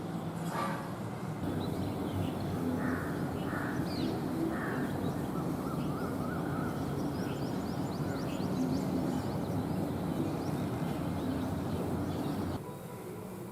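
A crow cawing at the birdbath: a few short harsh caws in the first half, then softer wavering calls, over a steady low background rumble that drops away near the end.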